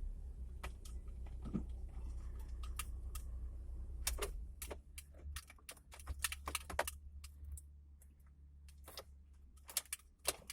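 Irregular light clicks and taps inside a car, some sharper than others, over a low steady hum that weakens about halfway through.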